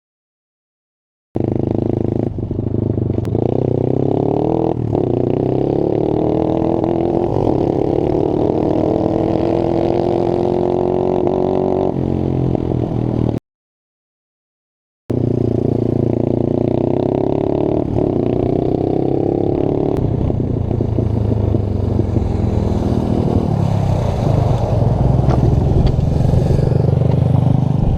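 Pit bike engine running under way, its pitch climbing slowly as it pulls. It cuts out abruptly twice into dead silence, once near the start and once about halfway, at edit cuts.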